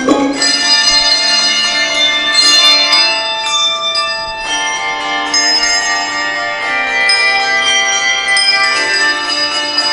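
A children's handbell ensemble playing a melody: many handbells struck in turn and left ringing, so the notes overlap and sustain.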